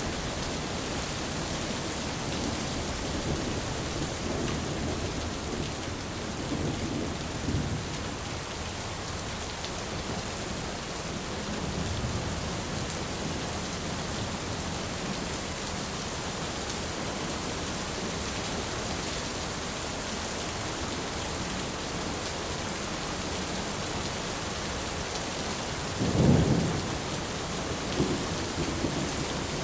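Thunderstorm: steady rain hissing throughout, with low thunder rumbling softly on and off and one louder thunder rumble near the end.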